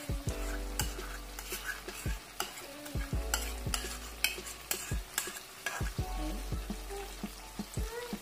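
Chicken karahi frying in hot oil in a nonstick pan, sizzling and crackling as yogurt thinned with water is poured over it, with many scattered sharp clicks and taps.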